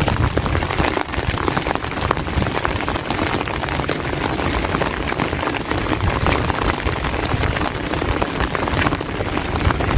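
Heavy rain falling steadily, a dense hiss of close drop impacts.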